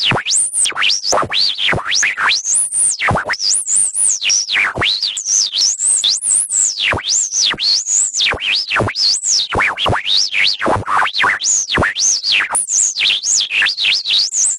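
Synthesized electronic tones gliding rapidly up and down in pitch, chopped into even pulses about three times a second.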